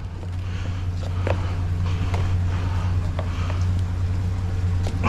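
A vehicle engine running steadily with a low hum, with a few faint scattered clicks.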